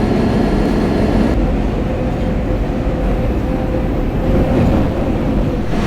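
Steady rumble and hum inside an R160B subway car, with hum tones from the car's equipment. A hiss in the upper range drops away about a second and a half in and returns near the end.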